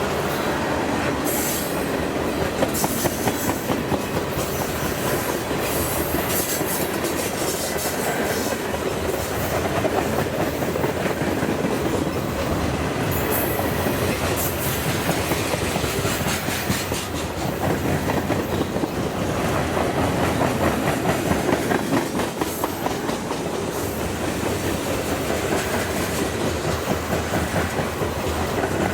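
CSX freight train cars rolling past: a steady rumble of wheels on rail with rapid clickety-clack over the rail joints. Short high wheel squeals come now and then.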